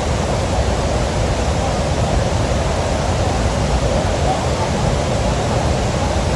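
Steady roar of falling water from Niagara Falls, a dense even noise with no breaks.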